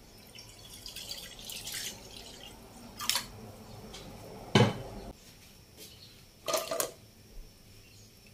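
Water poured from a plastic jug into a granite-coated wok, trailing off after about two seconds. Then come a few short knocks and light splashes, the loudest a thump about halfway through, as whole tamarind pods are dropped into the water.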